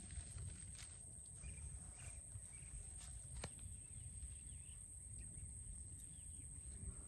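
Quiet outdoor ambience by a pond: a low steady rumble, a thin steady high-pitched whine, faint bird chirps and a few scattered sharp clicks.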